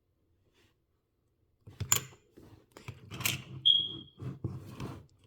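Small miniature-kit pieces being handled, with irregular clicks and knocks starting a little under two seconds in. Partway through comes one short, high squeak.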